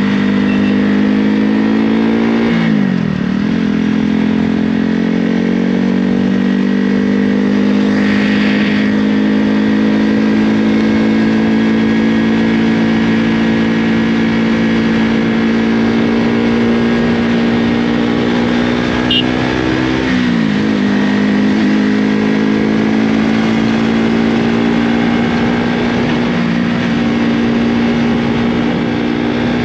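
KTM motorcycle engine with an Akrapovic aftermarket exhaust, running loudly at steady, high revs. Twice, about three seconds in and about twenty seconds in, the pitch dips sharply and climbs back.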